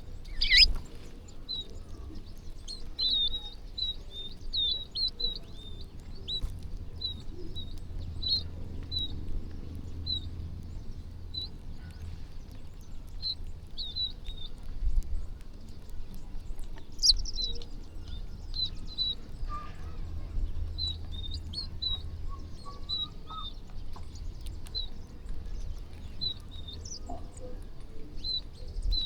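A flock of small birds chirping: many short, high chirps in quick runs, thinning out for a few seconds midway, over a steady low rumble.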